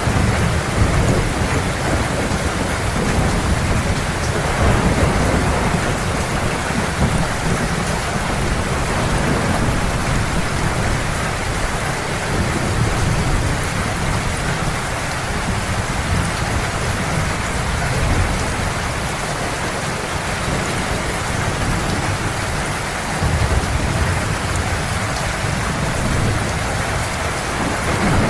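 Heavy steady rain with thunder rumbling low in the background, the rumble swelling and fading every few seconds.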